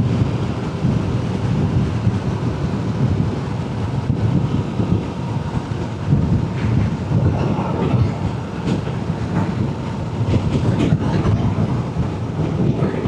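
Yamaha R7 motorcycle riding at a steady speed: a continuous, even rumble of engine, road and wind noise picked up by the rider's own microphone.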